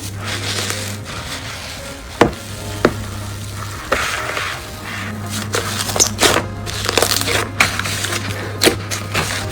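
Slime being squished and poked by hand: a wet, sticky crackle with sharp pops, a few separate ones early on and a quicker run of crackles in the second half.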